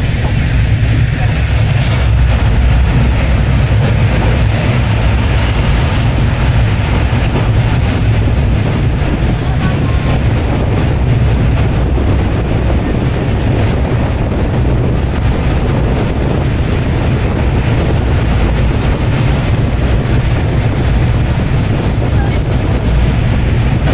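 Express train running at speed: a steady, loud rumble of wheels on the rails, with a few brief high squeals in the first ten seconds or so.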